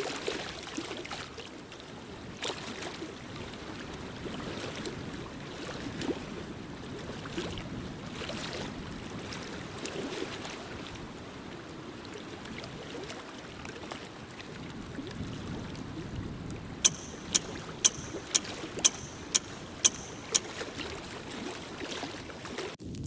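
Fireplace fire burning with a steady hiss and scattered small crackles. About three-quarters of the way in, a run of eight or nine sharp clicks comes roughly twice a second for a few seconds.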